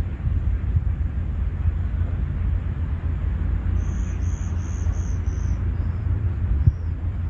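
Steady low rumble of outdoor park ambience. About four seconds in, a bird calls a quick run of about five short high chirps, then two fainter ones, and a single knock sounds near the end.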